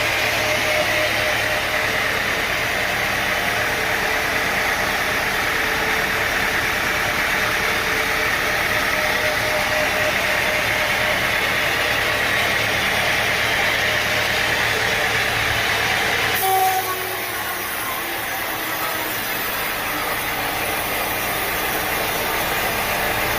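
Sawmill machinery running steadily: a constant motor hum under a loud, even hiss. The sound changes abruptly about two-thirds of the way through, then carries on steady.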